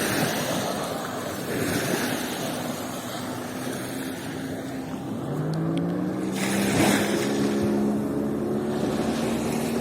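Sea waves washing up on the beach, swelling and falling every few seconds, over a steady low engine drone. About five seconds in a second engine note comes in, rising slightly in pitch and then holding steady.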